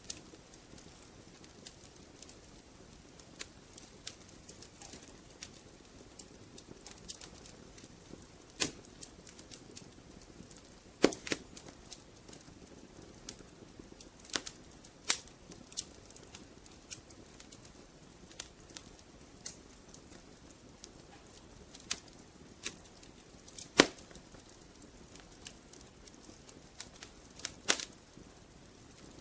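Wood fire crackling in a fireplace: irregular sharp pops and snaps over a soft low rustle, with two louder pops, about eleven and twenty-four seconds in.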